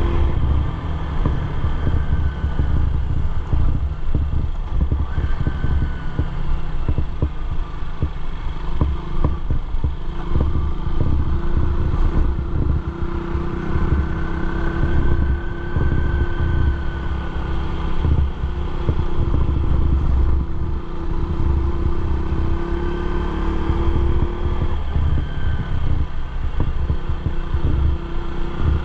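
Motorcycle engine running steadily while riding, its tone drifting slightly with speed under a heavy, choppy low rumble.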